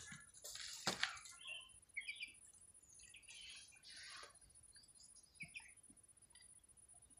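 Faint, short, high bird chirps scattered through. Rustling noise comes twice in the first second and again around the middle.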